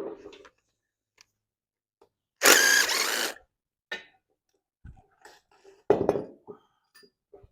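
Wrench work on an engine: a loud tool burst about a second long, two and a half seconds in, then a sharp knock about six seconds in, with light knocks and clinks between.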